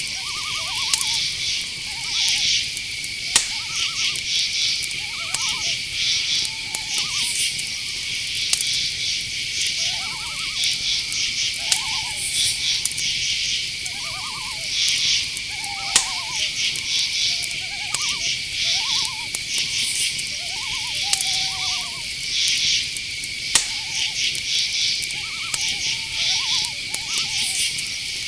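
Night-forest chorus: crickets trilling steadily and other insects chirping in rapid pulses, with short calls from a night animal repeating every second or two over them, and a few sharp clicks.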